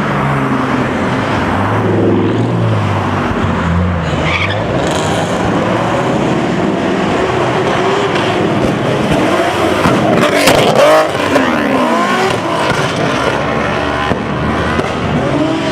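Car engines running and revving as cars drive off, with one engine revving hard about ten seconds in, its pitch sweeping up and down.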